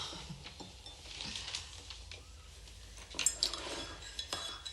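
Cups and cutlery clinking lightly on a table, with a few sharp chinks about three seconds in.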